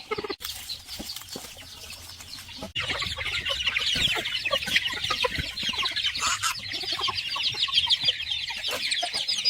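Chickens clucking. About three seconds in, a dense, continuous chorus of rapid high chirping starts up.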